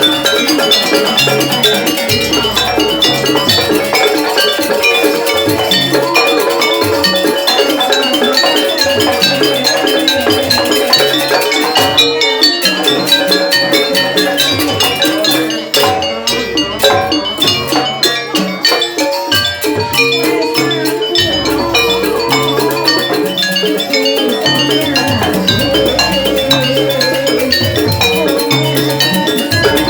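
Live jaranan dance music from a gamelan-style ensemble: a dense, fast run of struck metal keyed notes over repeating low drum and gong beats, with a held tone sounding through it.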